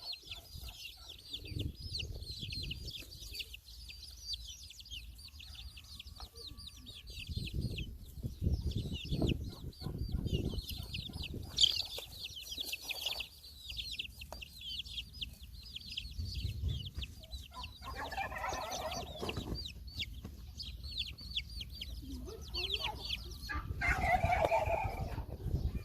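Chickens clucking in a farmyard, with a louder bout of clucking about two-thirds of the way in and again near the end, over a dense, continuous high chirping of small birds. Low rumbles come and go underneath.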